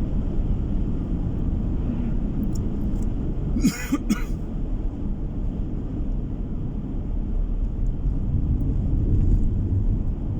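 Steady low rumble of road and engine noise inside a car cabin at about 60 km/h. A short, sharp double sound breaks in about four seconds in.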